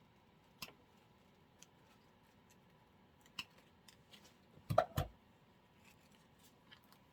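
Scissors snipping: a few scattered light clicks, with a louder double snip about five seconds in.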